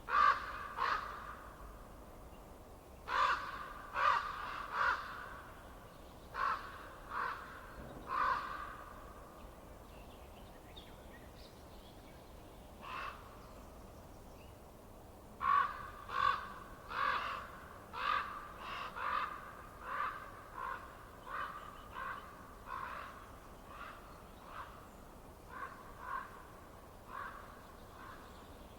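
A bird calling in short, harsh, evenly repeated notes: a few brief bouts, then a long run of about twenty calls that gradually fades.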